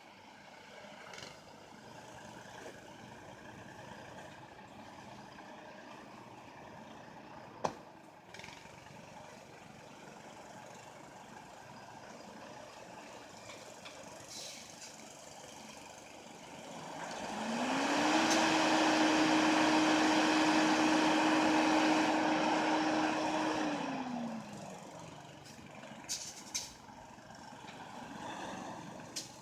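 A stuck semi truck's drive tires spinning in snow. Just past halfway, a whine climbs, holds steady for about six seconds over a loud hiss, then falls away as the wheels slow. Before and after, there is a quieter steady background.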